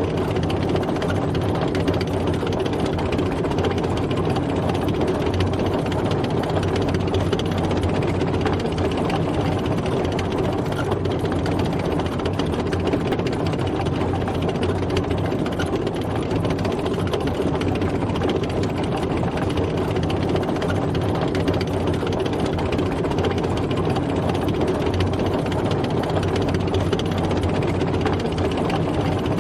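A tank driving, its engine running steadily under a constant mechanical clatter with no breaks or changes.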